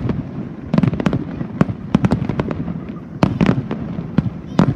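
Wide starmine aerial fireworks: shells bursting in rapid volleys, sharp bangs in quick clusters about every second, with a low rumble between them.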